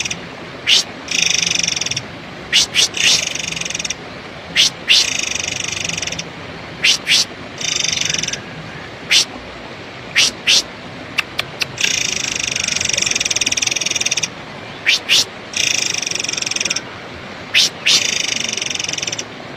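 Murai air (forktail) calls as a looped lure recording: sharp, high whistled notes, singly or two or three close together, alternating with longer buzzy, rattling trills of one to two and a half seconds each.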